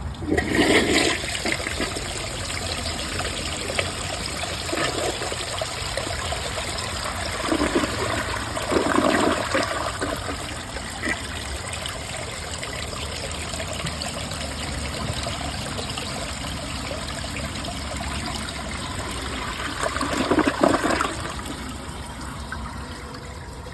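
A 2004 Briggs Altima toilet flushing from an overfilled tank: steady rushing and draining water with several louder surges, the bowl siphoning out twice.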